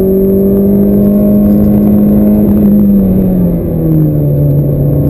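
Ferrari F430's 4.3-litre V8 running hard under acceleration, heard from inside the cabin. Its note climbs slightly, then drops in pitch about three and a half seconds in.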